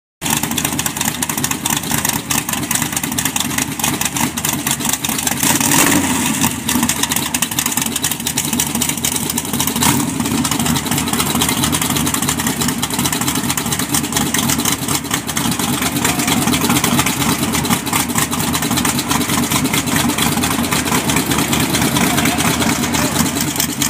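Race car engine idling with a loud, steady rumble, swelling briefly about six seconds in.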